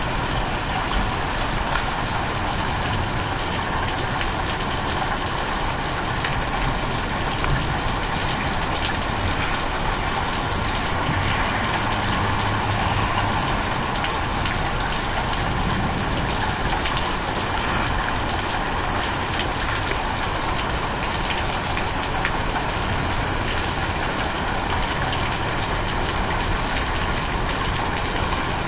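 Heavy thunderstorm rain falling steadily, a dense, even wash of noise with no let-up.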